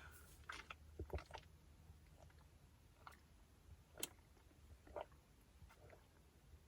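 Near silence with faint, scattered clicks and taps, the clearest one about four seconds in.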